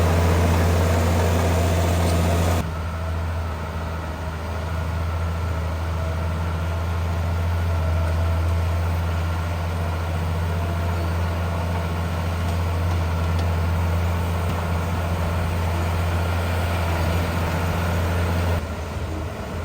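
Heavy diesel engines of earthmoving machinery running steadily with a low drone. The sound changes abruptly about two and a half seconds in and again near the end, as the sound of one machine gives way to another.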